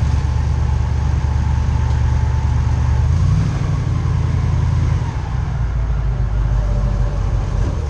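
Airboat's engine and propeller running loud and steady, the pitch stepping up about three seconds in and the level easing off slightly around five seconds.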